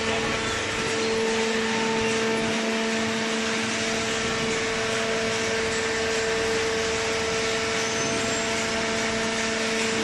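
Hydraulic cardboard baler's electric motor and pump running, a steady machine hum.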